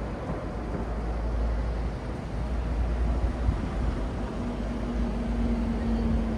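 City road traffic: a steady rumble of engines and tyre noise from passing vehicles. About two-thirds of the way through, a steady low engine hum joins in.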